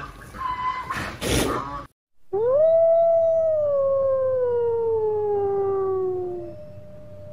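A wolf howling: one long howl that rises quickly and then falls slowly over about four seconds, with a second, fainter, steadier howl overlapping near the end. Before it come about two seconds of short rhinoceros calls.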